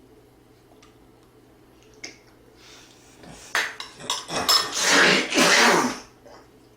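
Eating at the table: spoon and dishes clattering and scraping against a bowl in a loud, busy stretch of about two and a half seconds, starting about halfway through.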